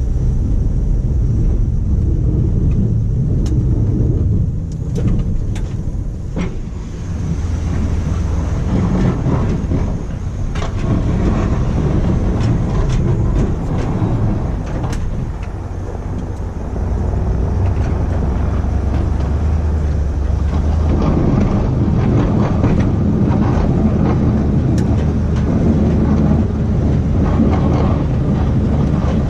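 1991 Dodge W350 pickup's 360 V8 running under load while the truck plows snow, getting louder about two-thirds of the way through. Scattered short knocks and clicks sound over the engine.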